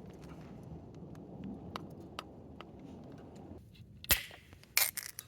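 Campfire crackling, with scattered small pops over a low rush. About four seconds in comes one sharp crack, and a short loud noisy burst follows near the end.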